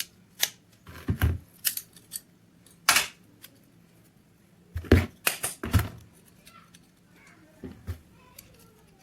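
Irregular sharp clicks and knocks of small metal pistol parts and tools being handled, sometimes singly and sometimes in quick clusters, the loudest cluster about five seconds in.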